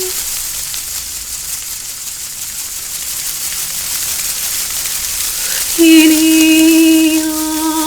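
Ambient background music: a steady rain-like hiss, with a long held note and its overtones coming in sharply about six seconds in and further higher held notes joining near the end.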